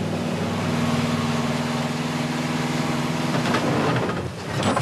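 Heavy truck's diesel engine running steadily under load in a drone that rises a little about half a second in and eases off near the end.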